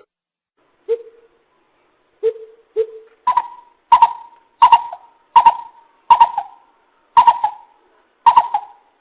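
Coucal (bìm bịp) calling: a series of deep hooting notes. Three lower notes are followed by about seven louder, higher ones, spaced somewhat under a second apart.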